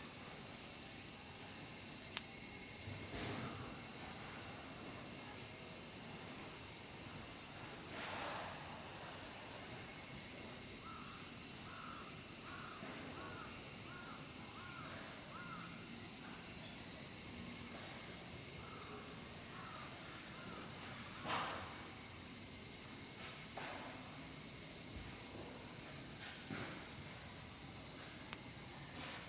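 Steady high-pitched chorus of insects. In the middle a bird calls about a dozen times in quick succession, with a few scattered soft knocks.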